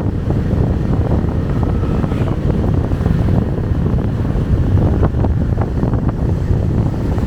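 Wind buffeting the microphone: a steady, loud low rumble with no break.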